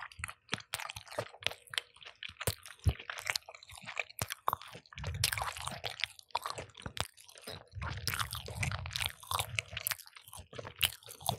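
Close-miked crunching and chewing of crispy fried chicken, many irregular crunches in quick succession: mukbang-style eating sounds made on purpose for the microphone.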